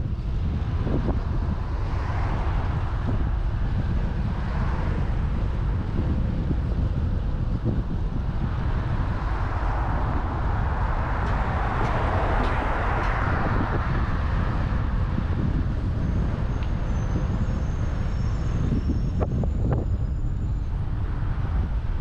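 Wind rumbling on the microphone of a moving bicycle over road traffic noise, with a vehicle passing that swells and fades about ten to fourteen seconds in.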